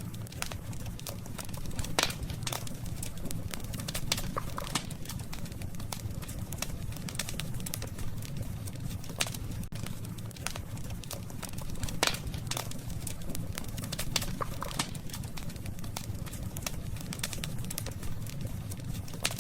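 Wood campfire burning: irregular sharp crackles and pops over a steady low rumble, with the loudest pops about two seconds in and about twelve seconds in.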